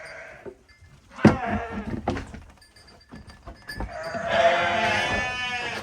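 A sheep bleats once, a long call near the end. Earlier, about a second in, there is a sharp knock followed by a few lighter clicks.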